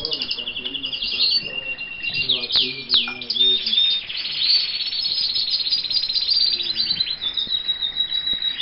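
Canaries singing in an aviary: continuous rapid trills and repeated quick falling notes, with long rolling passages held on one pitch.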